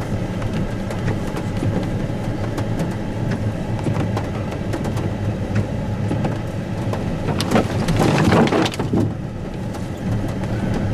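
Truck engine running at a steady low pitch, with rain ticking. About seven and a half seconds in, a louder rushing noise lasts a second or so.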